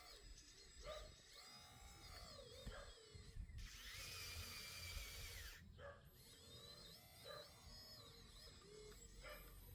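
A small electric motor whirs with a steady whine for about two seconds, starting about three and a half seconds in, over faint high chirps throughout.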